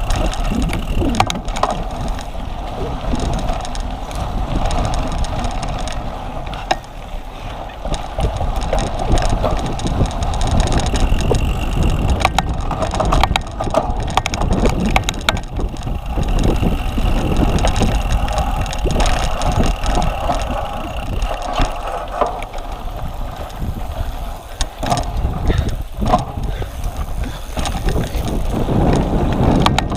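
Cyclocross bike ridden hard over rough ground: a continuous rattle and clatter of the bike, with many small knocks, and wind on the microphone.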